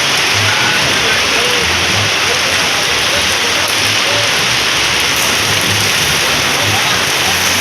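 Heavy rain pouring down, a loud, steady, even hiss of countless drops.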